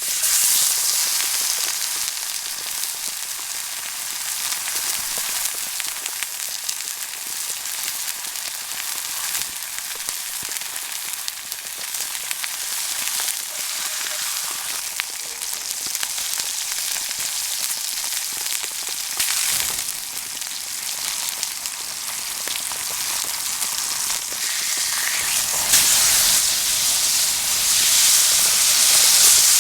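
Steak sizzling over a campfire: a steady frying hiss dotted with small pops, growing louder in the last few seconds.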